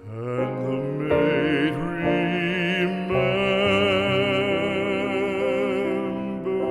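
Classical art song sung by a trained voice with vibrato, moving through a few notes before holding one long note for the second half.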